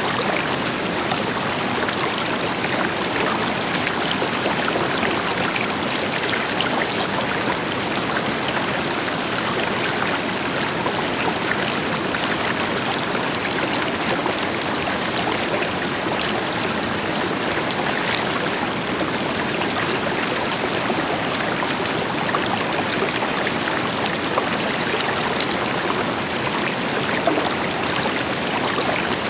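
River water flowing over rocks with a waterfall farther off, a steady even rush with fine splashing detail.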